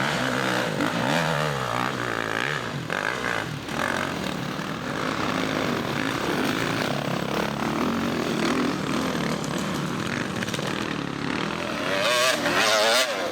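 Dirt bike engines revving hard under load on a steep hill climb, the pitch rising and falling as the throttle is worked, loudest near the end.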